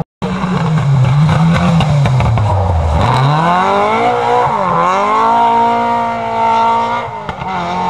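Rally car engine on a stage. The revs fall away until about three seconds in, then climb hard with a short dip at a gear change, hold high, and drop off near the end. The sound breaks off briefly at the very start.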